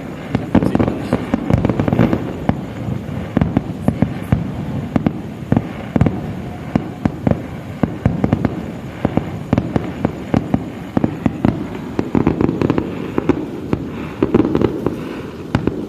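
Aerial fireworks display: shells bursting in a dense, irregular string of sharp bangs, several a second, over a continuous rumble of overlapping blasts.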